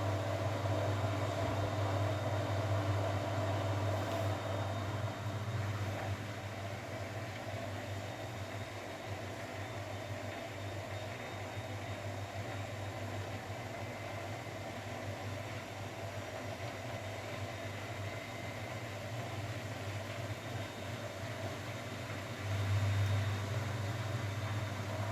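Grundig front-loading washing machine in its wash cycle: the motor hums steadily as the drum turns, eases off about six seconds in, and hums again near the end as the drum starts turning once more.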